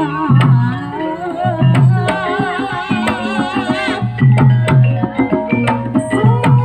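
Live Javanese Barongan music: hand-drum and gamelan percussion beating a steady rhythm under a wavering, vibrato melody line.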